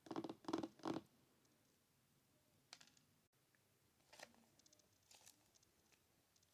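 Quiet tapping and clicking: a quick run of four taps in the first second, then a few faint scattered clicks.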